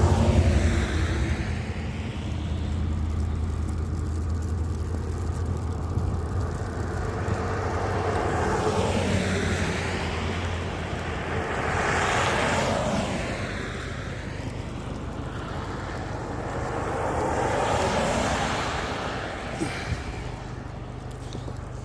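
Steady low drone of a car driving on the road, with tyre and engine noise from other vehicles swelling and fading as they pass, about four times.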